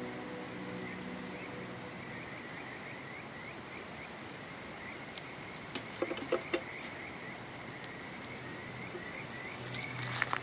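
A calling animal, frog or insect, gives a fast run of short high chirps, about four a second, over a steady hiss of flowing water. A few sharp crackling snaps come about six seconds in and again near the end.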